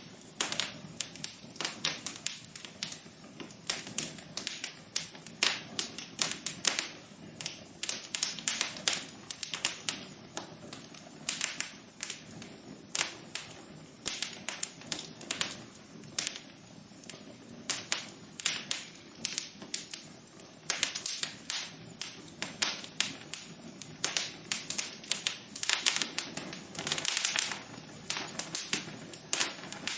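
Wood fire burning in a fireplace, crackling and popping with dense irregular snaps over a low steady rush of flame.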